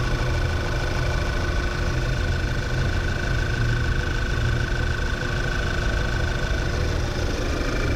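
Volkswagen Tiguan 2.0L TSI turbocharged four-cylinder engine idling steadily, a low even rumble with a constant high tone above it. It is running smoothly with the PCV system disabled, free of misfires.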